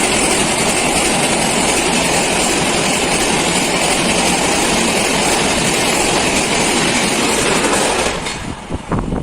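Indian Railways express train passing at speed close by, a loud steady rush of wheel and rail noise. The noise drops away suddenly about eight seconds in, leaving a few faint knocks.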